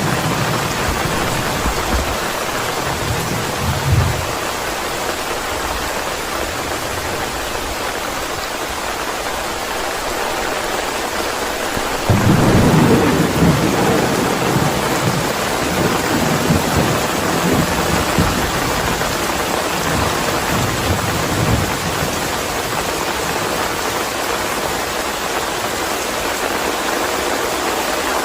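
Steady heavy rain with thunder: low rumbles in the first few seconds, then a sudden loud thunderclap about twelve seconds in that rolls on in swells for about ten seconds.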